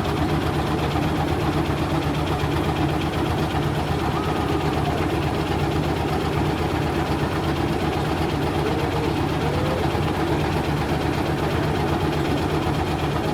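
A motor running steadily at an even pace, a constant low hum.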